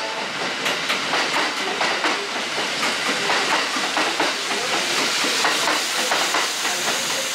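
Kintetsu electric train running past close along the platform: a steady rush of wheels on rail and hiss, with many short, irregular clicks and clacks from the wheels and track.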